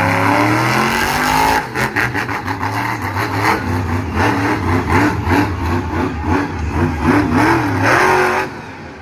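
Monster truck engine revving hard again and again, its pitch climbing and falling in quick swings, with a brief let-off about two seconds in and another near the end.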